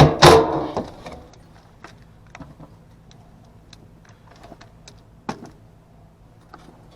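Clattering knocks of things being handled during work on an HVAC unit, loudest in the first second, then scattered light clicks and one sharper knock a little after five seconds, over a faint steady low hum.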